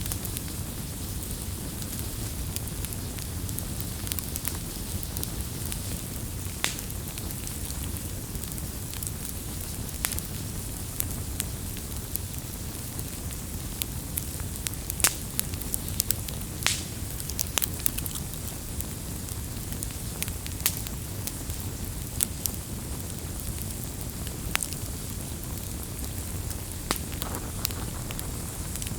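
Wood campfire burning, with a steady low rumble of flame and sharp crackles and pops at irregular intervals.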